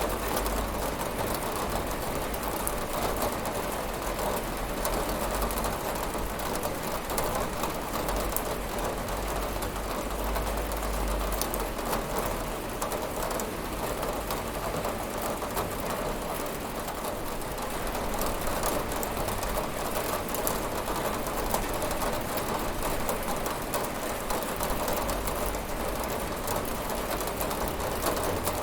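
Steady rain pattering on a window, an even hiss with fine drop ticks and a low rumble underneath.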